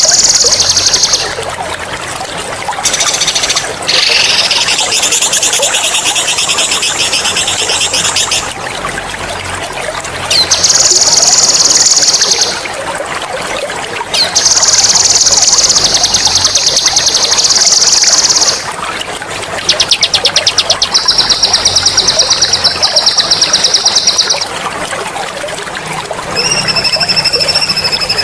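Songbird singing long, loud, high-pitched rolling trills, each a rapid run of notes lasting a few seconds, about six bursts in all with short gaps between. Under them runs steady trickling water.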